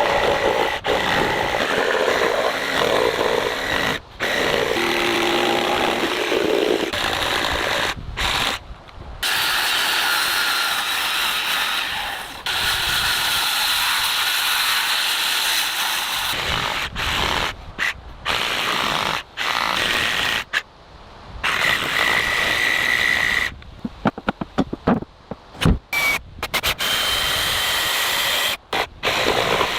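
Power tools running on timber in a string of short clips joined by abrupt cuts, with a steady whine at times.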